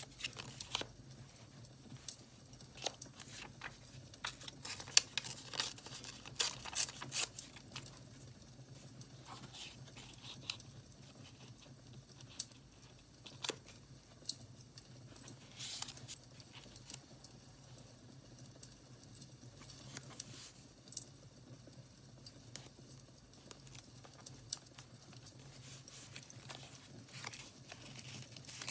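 Paper being handled for journaling: tearing and crinkling in short bursts, busiest a few seconds in and again near the end, with scattered sharp clicks over a low steady hum.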